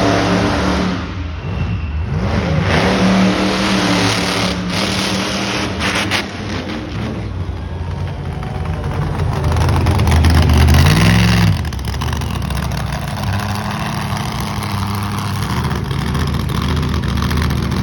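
Big truck's engine running and revving, climbing in pitch and loudness about ten seconds in, then dropping back after about a second to a steady run.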